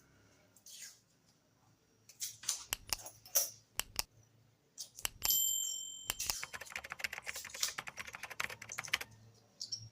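Hard clicks and knocks, a brief metallic ring about five seconds in, then a rapid run of clicking for about three seconds, like small metal parts being handled.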